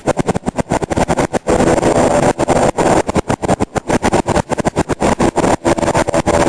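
Helicopter rotor chopping in a rapid, steady beat, loud and close.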